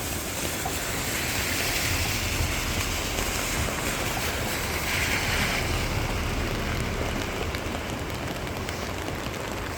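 Swollen, flood-high creek rushing past, a steady noise of fast-moving water that swells slightly a couple of times.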